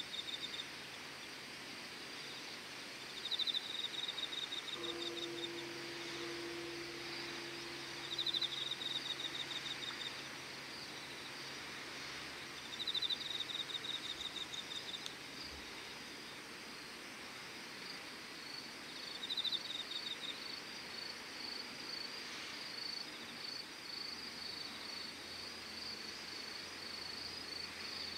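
Insects singing outdoors: short pulsed trills about a second long repeat every four to five seconds, and a quicker, steadier pulsing chirp joins from about two-thirds of the way in. A faint steady low tone sounds for about five seconds near the start.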